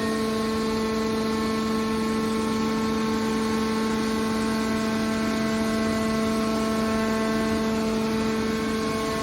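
Hydraulic scrap steel baler's power unit running: a steady, even hum with a clear pitch that holds without change.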